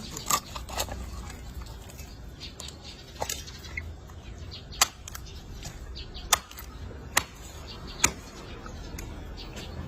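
A knife chopping through a large fish onto a cutting board: about eight sharp, irregular knocks a second or so apart, over a low steady hum.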